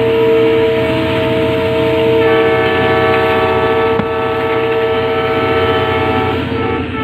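Diesel locomotive air horn blowing a long steady chord, with a second horn joining in about two seconds in and both stopping shortly before the end, over the low rumble of the running train.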